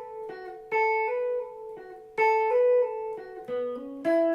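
Guitar playing a short lick: a note on the B string hammered on a whole step up and pulled off back, then resolving down to a lower note, played twice. Near the end it moves to lower notes hammered on the D string.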